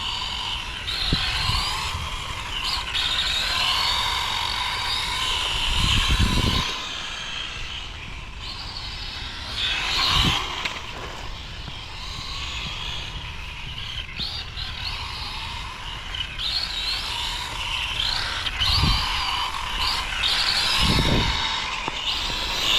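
Radio-controlled rally cars driving, their motors whining and wavering in pitch as the throttle goes on and off, with several short low rumbles along the way.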